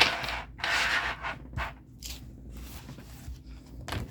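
Paper pages rubbing and sliding against each other as a ring-bound planner book is put together: two long swishes in the first second and a half, then softer rustling.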